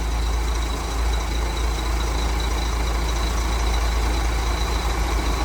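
Heavy truck's diesel engine idling with a steady low rumble, ended by a sudden burst of hiss at the very end.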